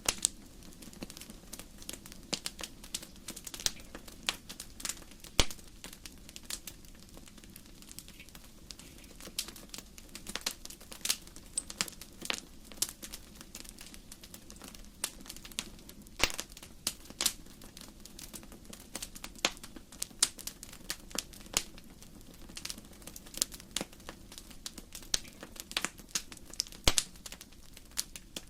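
Firewood burning in a fireplace, crackling: irregular sharp pops and snaps, a few much louder than the rest, over a steady low sound of the flames.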